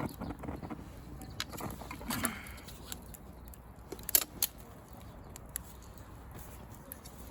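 Small fire of dry pruned branches crackling, with scattered sharp pops, the loudest about four seconds in.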